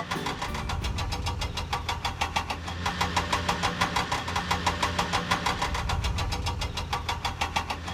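Cartoon vehicle engine sound effect: a rapid, even chugging over a steady low hum, like an idling engine.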